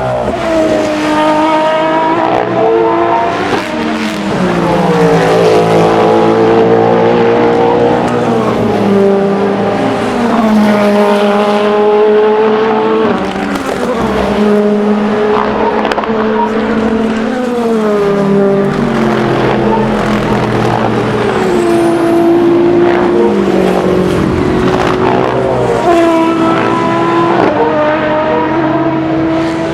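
Endurance racing cars passing trackside one after another, their engine notes rising and falling with gear changes throughout.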